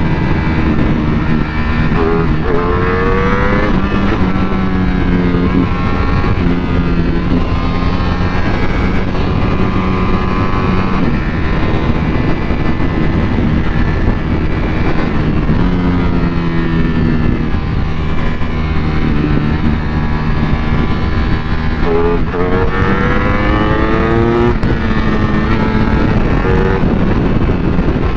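Ducati Panigale V4's V4 engine under way with its Euro 5 exhaust, over steady wind and road rush. It revs up through the gears about two seconds in and again near the end, cruising at a steadier pitch in between.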